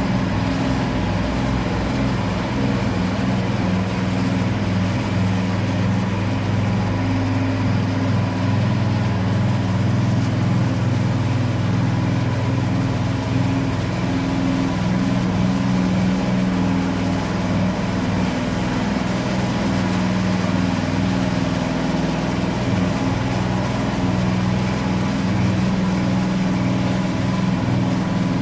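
Petrol engine of a power trowel (concrete floor finisher) running steadily at constant speed while it smooths a mortar screed floor.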